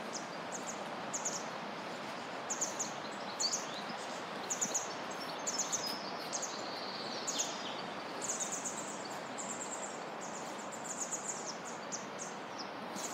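Small birds chirping repeatedly in short high notes, with one brief falling whistle about halfway through. Under them runs a steady background hiss of outdoor ambience.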